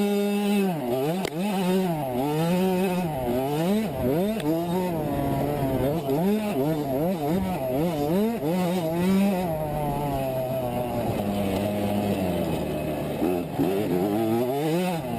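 65cc two-stroke motocross bike engine revving up and down over and over, its pitch rising and falling about once a second, with a steadier stretch past the middle before it swings again near the end.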